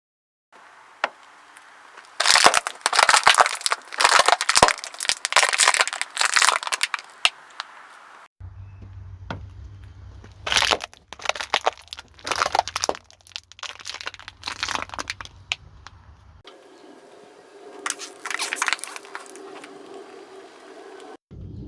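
Car tyres rolling over and crushing crunchy objects: dense crackling, cracking and crinkling in three separate clips, starting about half a second in, about eight seconds in and about sixteen seconds in. A low steady hum runs under the middle clip.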